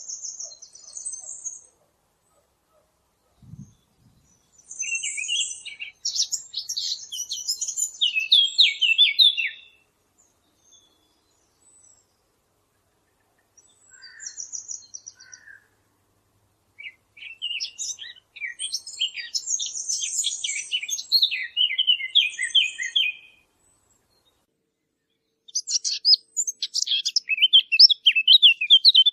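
Song of the small songbird called the fig bird (عصفور التين): bursts of rapid, high warbling phrases a few seconds long, with short pauses between them. A brief low thump sounds about three and a half seconds in.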